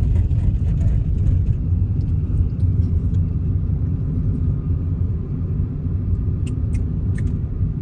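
Steady low rumble of a car's road and engine noise heard from inside the cabin while driving, with a few faint clicks about six and a half seconds in.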